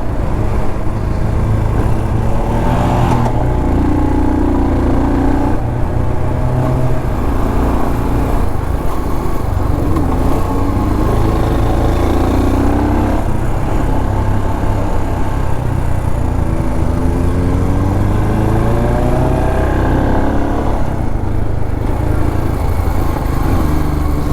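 Royal Enfield Scram 440's single-cylinder engine under way, its revs climbing and dropping back several times as it accelerates and shifts gear.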